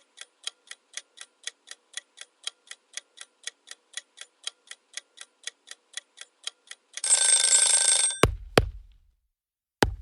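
Countdown clock sound effect: a clock ticking about four times a second, then about seven seconds in a loud alarm bell rings for about a second, the signal that time is up. Two sharp hits follow, and another comes near the end.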